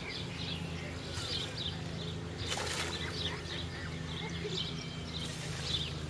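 Many short, high bird chirps, on and off, over a steady low hum.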